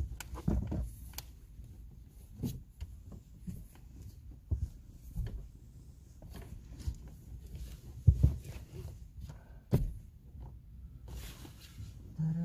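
Handling noises inside a small car cabin: scattered, irregular thumps and knocks with some rustling as curtains are fitted over the windows. The sharpest knocks come about eight and ten seconds in.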